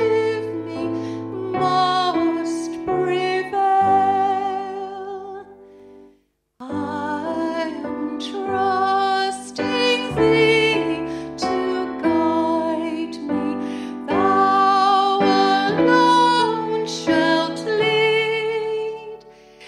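A woman singing a slow song with piano accompaniment. The sound drops out completely for about half a second about six seconds in, then the singing and piano resume.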